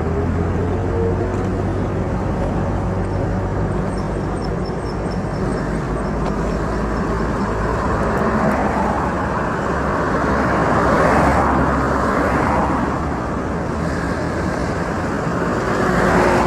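Street traffic: motor vehicle engines running, with a steady low hum, and vehicles passing that swell louder about eleven seconds in and again near the end.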